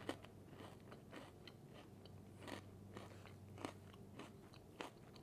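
Faint chewing with scattered soft crunches, a mouthful of Cadbury Crunchie Rocks: milk chocolate clusters with cornflakes and honeycomb toffee pieces.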